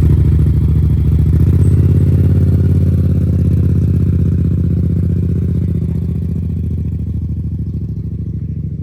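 Motorcycle engine just fired up, running with a deep, evenly pulsing exhaust beat that slowly fades as the bike rides off.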